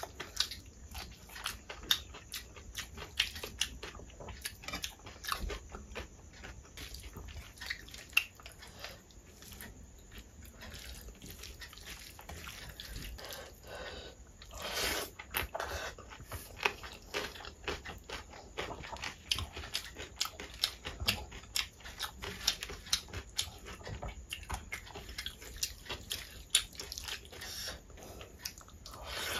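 Close-miked eating sounds: chewing and crunching of rice mixed with dal and crispy fried potato sticks (jhuri aloo fry), with wet mouth smacks and clicks throughout.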